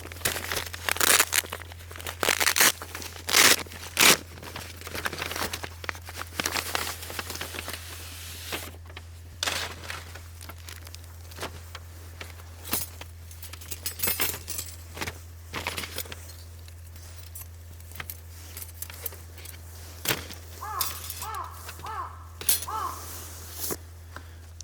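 Rustling and crinkling handling noises with many sharp clicks and snaps, densest in the first several seconds and then sparser. A steady low hum runs underneath, and a few short chirps come near the end.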